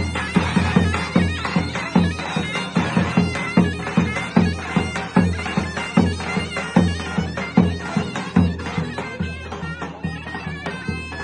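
Davul and zurna playing a folk dance tune: a shrill double-reed zurna melody over a steady beat of deep davul strokes.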